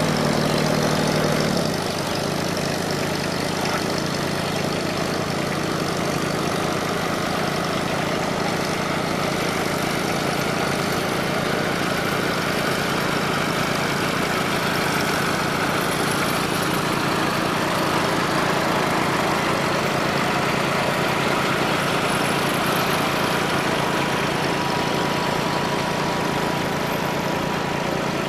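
Farmall Super C tractor's four-cylinder engine grunting under steady load as it pulls a sled, its note holding even with a slight drop in level about two seconds in.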